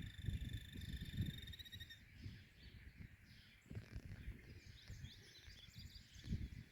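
Small birds calling: a steady high trill for the first two seconds ends in a quick warble, then short scattered chirps follow. Low rumbling noise runs underneath.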